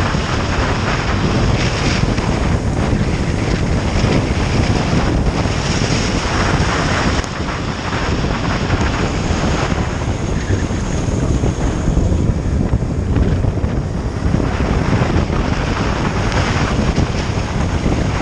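Heavy wind noise on the microphone of a moving motorcycle, a steady rushing haze with engine and road noise beneath it.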